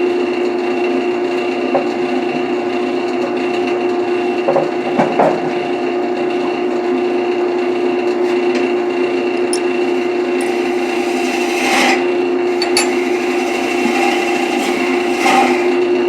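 Wood lathe running with a steady hum while a turning tool scrapes against the spinning wood, with a few sharper scrapes and knocks in the second half.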